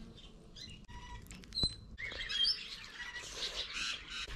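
Small birds chirping now and then, with short high chirps and brief whistled glides.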